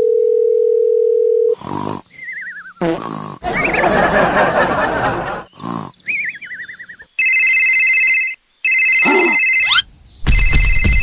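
A quick string of short sound effects cut one after another: a steady beep-like tone, a wavering falling tone, a noisy stretch, then two ringing, alarm-like bursts and a loud rumbling noise near the end.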